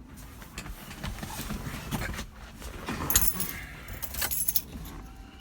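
A bunch of car keys jangling, with scattered knocks and rustles, loudest in two spells about three and four seconds in; the engine is not yet running.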